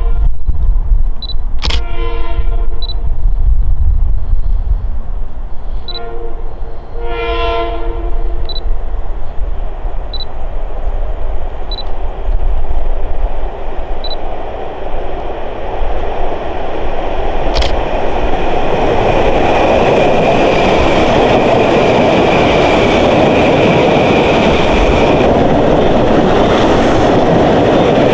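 Long Island Rail Road Kawasaki M-9 electric multiple-unit train sounding its horn several times as it approaches, the longest blast about seven seconds in. Its running noise then builds from about sixteen seconds in to a loud steady rush with a high whine as the cars pull into the station.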